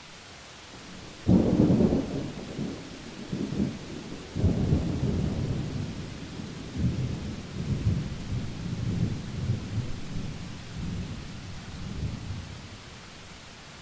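Thunder in a rainstorm: a sharp crack about a second in, a second surge a few seconds later, then a long low rumble that rolls and fades out near the end, over steady rain hiss.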